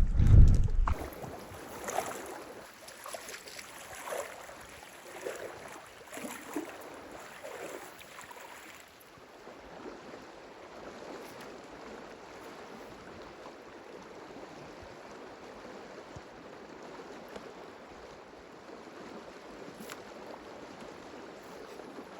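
Madison River water rushing steadily. It opens with a brief low buffet of wind on the microphone, and a few short, irregular louder noises come in the first eight seconds or so.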